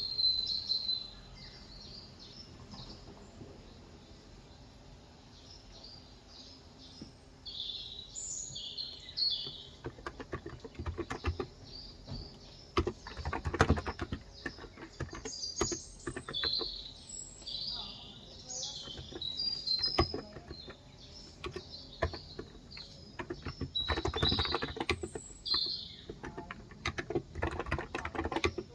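Typing on a Cox Endeavor electro-capacitive keyboard with 35 g switches: keys clicking in quick bursts, starting about a third of the way in, with pauses between runs. Small birds chirp and twitter throughout.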